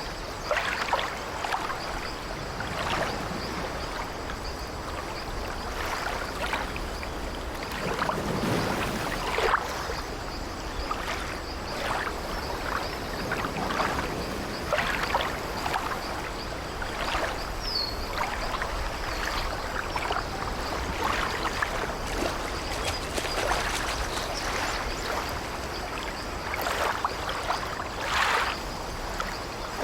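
Sea waves lapping and splashing against an old wooden ship, with the ship's timbers creaking, in an irregular, unbroken wash.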